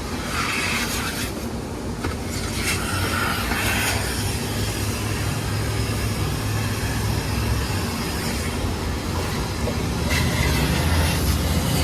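Steady low rumble of a vehicle engine running, with a few brief noisy swells over it.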